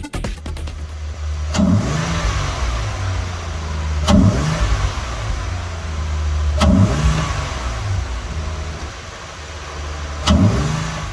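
2021 Dodge Durango GT's 3.6-litre Pentastar V6, breathing through a MagnaFlow cat-back exhaust and an Injen cold air intake, idling and blipped four times, each rev rising sharply and falling back to idle. The exhaust has a deep note said to sound like a V8.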